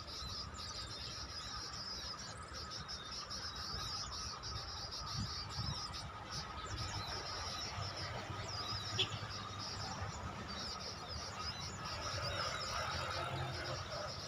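Open-air field ambience: a steady chorus of crickets and other insects with scattered bird chirps, over a low rumble. A single short click about nine seconds in.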